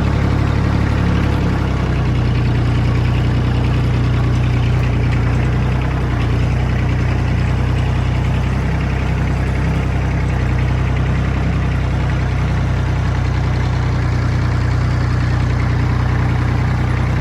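Tractor engine running at steady, even revs.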